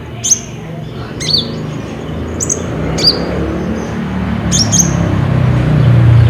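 Little spiderhunter (kolibri ninja) calling: about six sharp, high chirps, each sweeping quickly downward, spaced irregularly. Underneath, a low hum grows louder toward the end.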